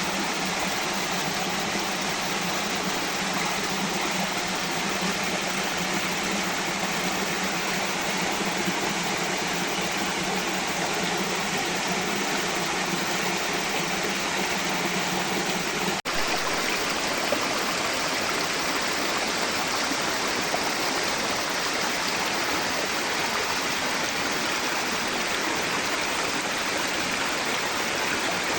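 Forest stream flowing steadily, a continuous rush of water. A low hum sits under it for the first half and stops at a sudden cut about sixteen seconds in.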